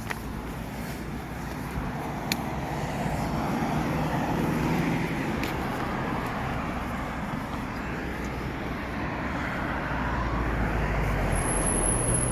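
Steady outdoor traffic noise with a vehicle passing, swelling louder a few seconds in and again near the end. A thin high whistle starts near the end.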